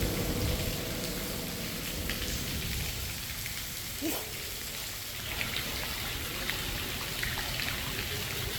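Steady rain during a hurricane, with scattered sharp drop ticks over a low rumbling wind noise.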